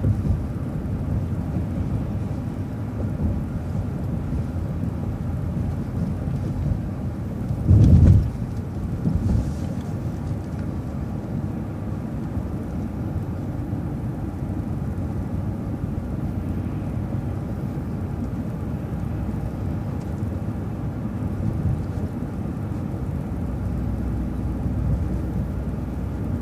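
Steady low rumble of a vehicle driving, engine and road noise heard from inside, with one brief louder low thump about eight seconds in.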